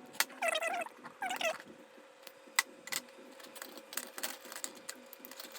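Two short pitched animal calls, about half a second and a second and a quarter in, over scattered small clicks and taps.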